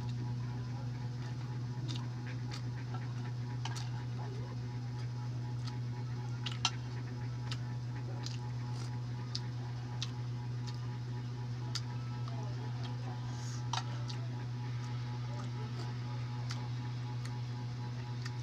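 A steady low hum with irregular, scattered sharp clicks and small taps from eating balut, such as handling the eggs and shell, with a louder click about a third of the way in and another a little past the middle.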